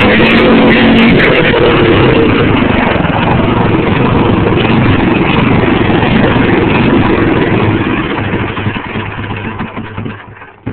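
Wisconsin Robin WI-390 small engine running loudly and steadily, then dying away over the last couple of seconds.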